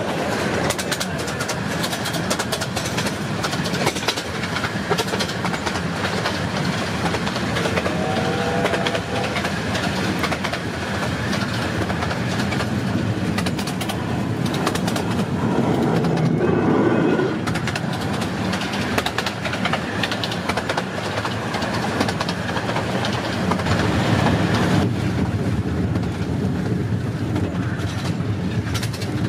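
Romney, Hythe and Dymchurch Railway 15-inch-gauge miniature train running, heard from a passenger coach: a steady rumble of wheels with a busy clatter over the rail joints. There is a brief louder patch about sixteen seconds in.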